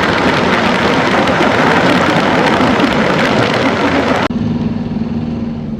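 A vehicle engine runs under a loud rushing noise that cuts off suddenly about four seconds in, leaving a steady engine hum.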